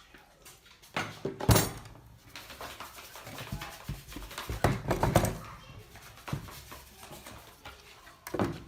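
A series of irregular knocks and clatters: the loudest about a second and a half in, a cluster around five seconds in, and another near the end.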